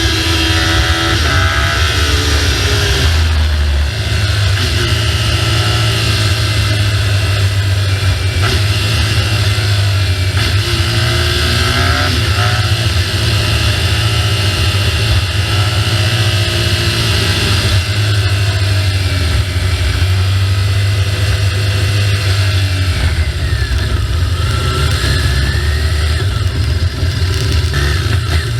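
BMW R1200GS boxer-twin motorcycle engine under way while riding, its note rising and falling several times as the revs change, over a steady rush of wind and road noise.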